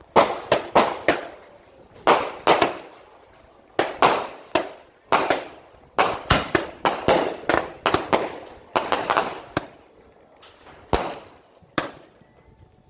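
Aerial fireworks bursting in quick, irregular volleys, sharp bangs each trailing off in a rolling echo, thinning to a few scattered bangs near the end.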